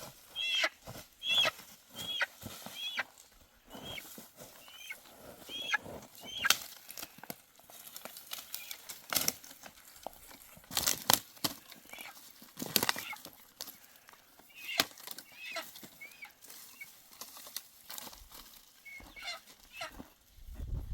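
Birds chirping: short, high, arched calls repeated about once or twice a second, pausing now and then, with scattered clicks and rustles.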